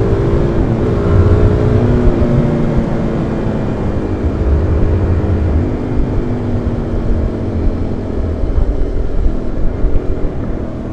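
Single-cylinder supermoto motorcycle engine running under way, heard from inside the rider's helmet with wind buffeting the microphone. The engine note eases down over the first couple of seconds, then holds fairly steady.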